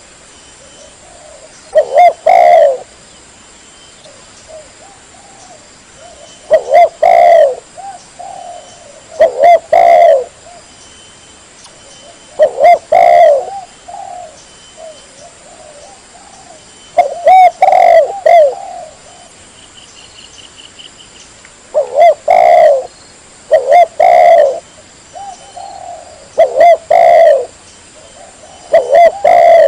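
Spotted dove (tekukur) cooing loudly: about nine phrases of a few rounded coos each, repeating every two to five seconds.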